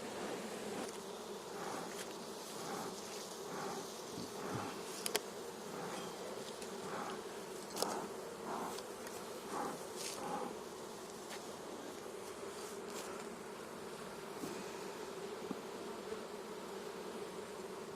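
Many honeybees buzzing steadily around an opened hive, the hum swelling now and then, with a few sharp light clicks.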